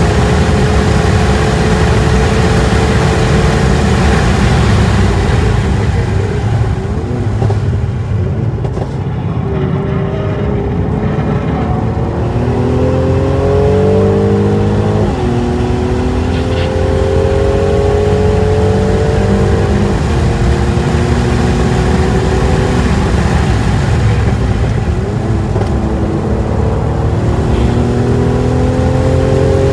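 Turbocharged car's engine heard from inside the cabin on a hot lap: running flat out at first, easing off under braking for a corner, then revving up through the gears with sharp pitch drops at upshifts about 15 and 20 seconds in, and climbing again near the end. Wind and tyre noise run underneath.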